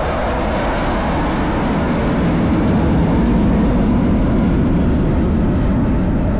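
Loud jet aircraft engine roar as a fast jet flies by, deepening to a lower rumble as it moves away.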